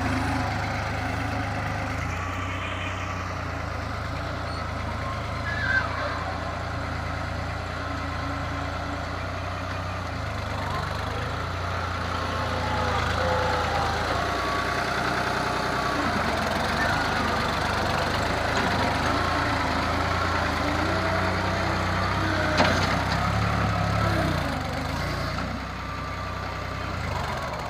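New Holland tractor's diesel engine running steadily with a low drone, with two short sharp knocks, one about six seconds in and one near the end.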